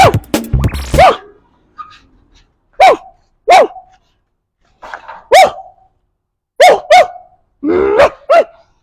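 Dog barking on command: a string of short single barks, sometimes in quick pairs, a second or two apart.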